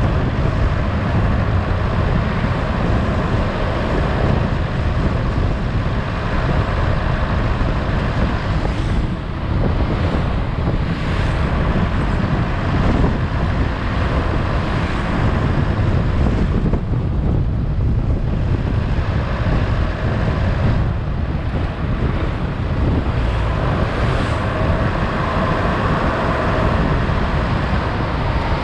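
Steady low rumble of wind buffeting a camera microphone on a moving vehicle, with road and engine noise underneath.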